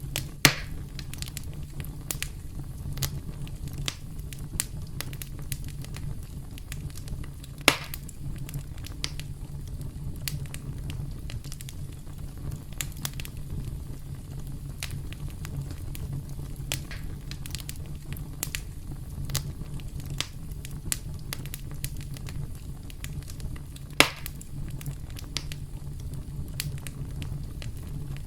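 Campfire burning with a steady low roar and a constant scatter of small crackles, broken by three louder sharp pops: one just after the start, one about a third of the way in and one near the end.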